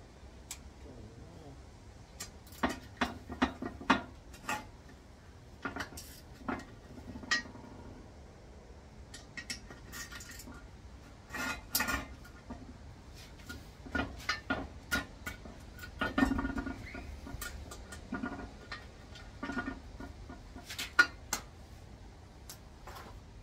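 Steel gearbox parts and hand tools being handled during a manual transmission teardown: irregular clinks and knocks of metal on metal, some ringing briefly, with short pauses between clusters.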